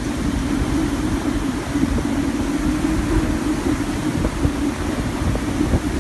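Hurricane-force wind blowing hard, buffeting the microphone with a heavy low rumble and a steady drone under an even rushing hiss.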